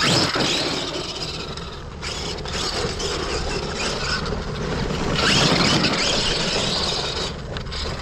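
Arrma Kraton RC car on 8S with a 700KV Leopard brushless motor, driven in throttle bursts, its tyres scrabbling over loose dirt and gravel. The sound surges right at the start and again about five seconds in.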